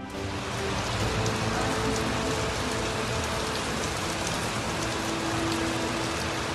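Heavy rain pouring down: a dense, steady hiss with scattered drop impacts, starting abruptly.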